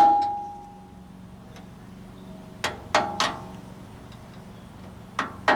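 Hammer striking a metal part of a hydraulic cylinder to seat it, each blow ringing: three quick strikes a little over halfway in, then two more near the end.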